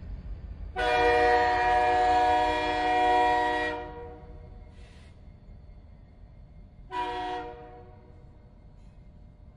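Train horn sounding a chord: one long blast of about three seconds, then a short blast about three seconds later, over a low rumble that fades away.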